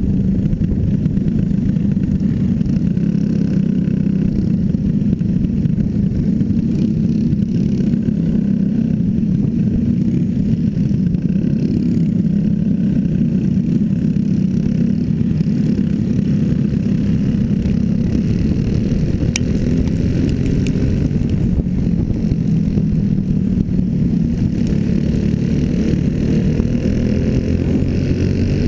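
Racing motorcycle engine running hard and continuously, its note holding steady with small rises and falls in pitch.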